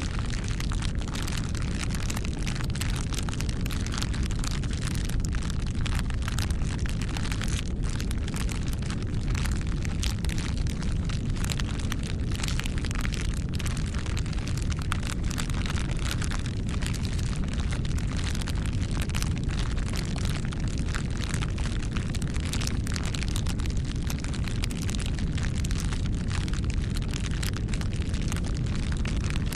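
Wood fire burning steadily, with a low rumble and dense, irregular crackling and popping.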